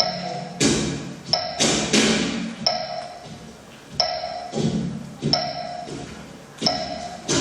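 Ghungroo ankle bells jingling under stamping dance footwork, with a clear metallic ping ringing out about every second and a third, keeping time.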